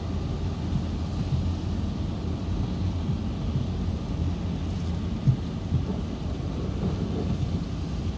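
Distant thunder rolling in a thunderstorm: a steady low rumble with a few faint knocks, the sharpest about five seconds in.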